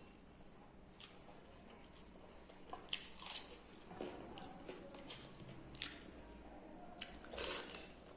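Close-miked eating sounds of a basi pakhala meal: wet mouth smacks and chewing, with a dozen or so short irregular clicks and squishes.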